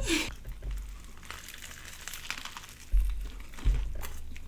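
Faint crinkling of food wrapping being handled, with two dull thumps, one about three seconds in and the next about half a second later.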